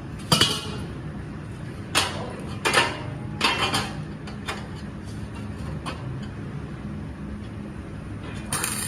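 Metal parts clanking and clinking, a handful of sharp knocks in the first four seconds and fainter ticks after, over a steady low machine hum.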